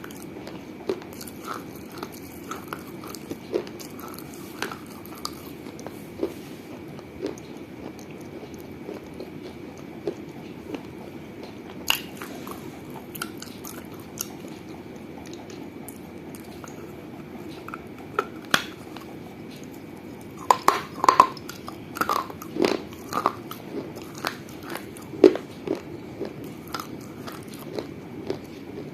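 Biting and chewing on pieces of a small baked-clay piggy bank: sharp isolated crunches and cracks over steady chewing, with a quick run of loud crunches about two-thirds of the way through.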